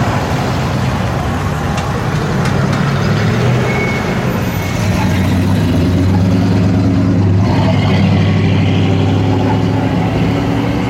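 V8 muscle car engine running at low speed, a deep steady rumble that grows louder about halfway through.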